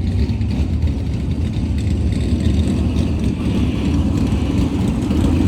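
Small-block V8 high-output pulling truck engine running loud and steady, growing a little louder near the end.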